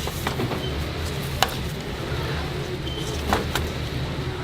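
A few sharp knocks of kitchen work, once about a second and a half in and twice in quick succession near the end, over a steady low hum.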